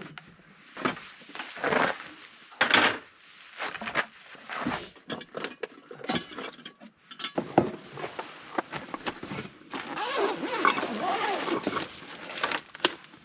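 Irregular knocks, clicks and rustling of gear being handled and moved around in a cramped space, with a busier stretch of clatter near the end.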